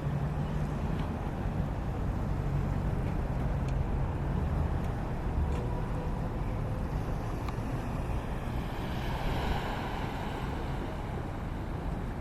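Storm wind rushing over the microphone, with a steady low engine hum in the first half. A broad rushing swell builds and peaks about nine seconds in.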